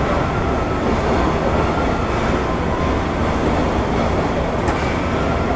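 Steady rumble and hum inside a JR 205 series 600 commuter train car standing at the platform before departure, with a short click about 4.7 s in.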